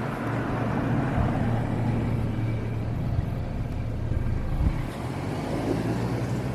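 Steady low rumble of a motor vehicle engine running, heard within outdoor background noise.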